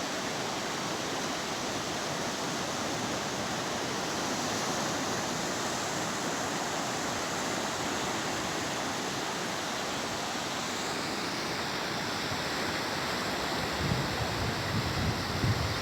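Sea surf washing steadily onto a beach, a continuous even rush of water. Near the end, low uneven buffets of wind hit the microphone.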